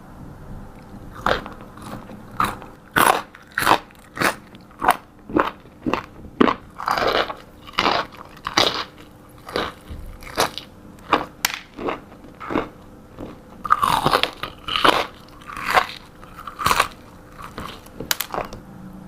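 Close-miked mukbang eating: repeated crunchy bites and chewing of fast food, the crunches coming about once or twice a second, busiest in the middle and late part.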